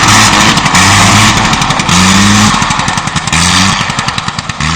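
Light aircraft's engine and propeller running over loud wind noise, its note stepping up and down in pitch as the throttle changes. Toward the end the sound gets quieter and the engine's rapid beats become distinct.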